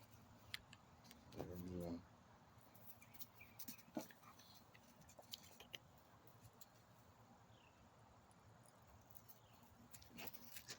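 Near silence: faint scattered clicks, with one short voice-like sound about a second and a half in.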